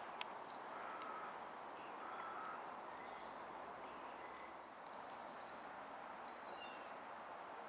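Outdoor ambience: a steady background hiss with short, repeated bird calls about once a second, a single sharp click just after the start, and a few brief high chirps near the end.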